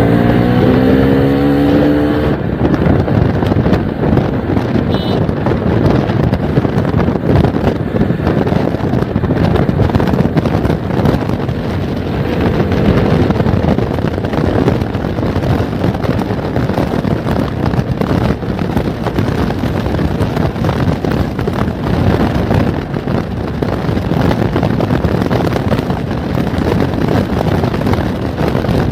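Motorcycle riding at speed: wind buffeting the microphone over the steady rumble of the ride, with an engine note rising in pitch for about the first two seconds.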